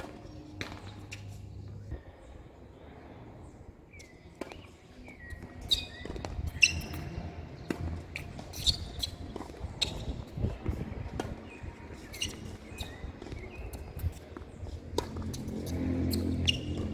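Tennis ball being hit with rackets and bouncing on the court in a rally: sharp knocks at uneven intervals of a second or two. Birds chirp now and then over a low steady rumble.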